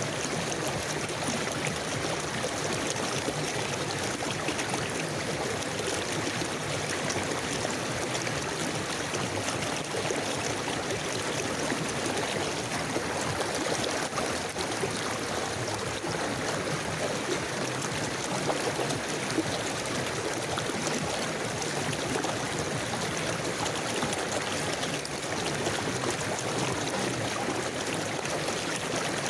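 River water flowing over rocks: a steady, even rush with a little gurgling and trickling.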